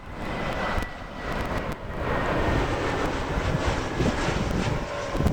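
Jet airliner's engines heard from the ground: a steady rumbling noise with a faint high whine that drifts slightly lower.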